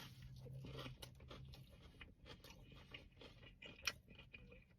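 Faint chewing and biting of a sub sandwich: soft wet mouth clicks and crunches, with one sharper click about four seconds in.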